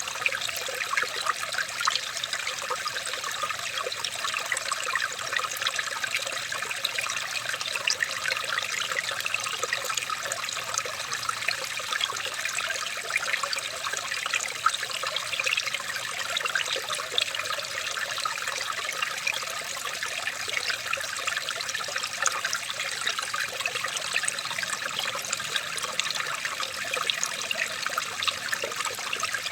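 Running water trickling steadily, a small stream with a dense patter of little splashes and no pauses.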